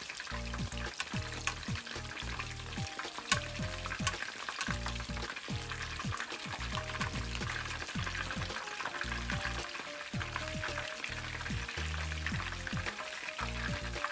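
Chicken wings deep-frying in hot oil in a pan, a steady dense sizzling crackle, with one sharp click about three seconds in. Background music plays underneath.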